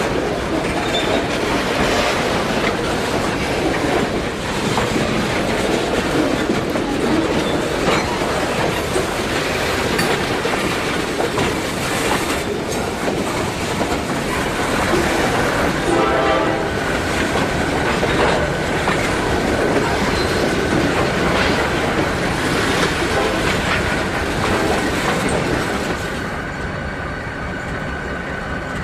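Train running on rails: a dense, steady clatter of wheels with repeated knocks. A thin, steady high tone joins it about halfway through. The sound drops a little near the end.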